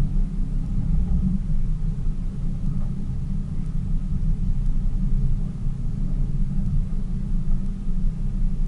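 Tour boat's engine running steadily underway, a low, even rumble heard from on board.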